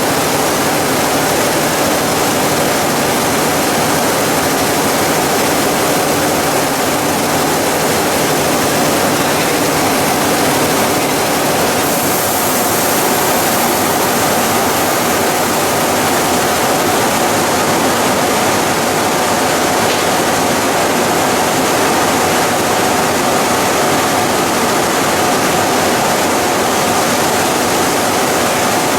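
Plastic pelletizing line machinery running steadily: a loud, dense hiss with a few faint steady hums through it, and a higher hiss joining about twelve seconds in.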